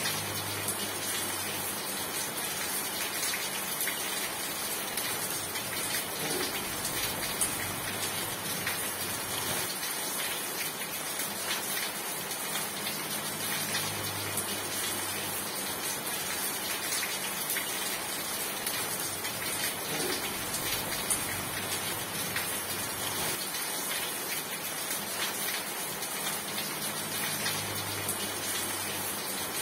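Steady rain falling on a surface, a dense even hiss of many drops.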